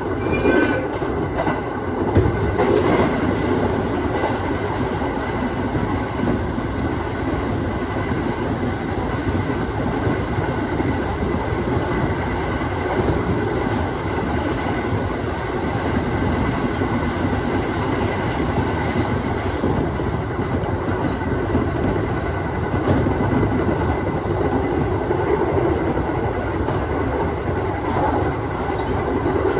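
Aoimori Railway 701 series electric train running along the line, heard from on board: steady running noise with a thin steady whine and wheels clattering over rail joints. Near the start there is a brief high wheel squeal.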